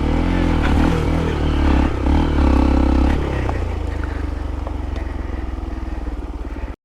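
Hero Impulse's single-cylinder motorcycle engine running, its pitch swinging up and down for the first three seconds, then dropping back to a steady, pulsing idle. It cuts off abruptly near the end.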